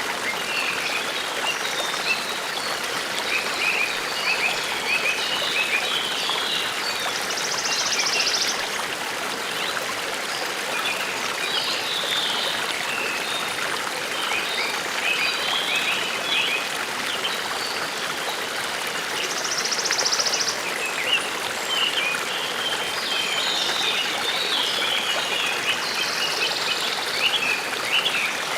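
Forest stream flowing steadily, with small songbirds chirping throughout and a short, high, rapid trill a few times.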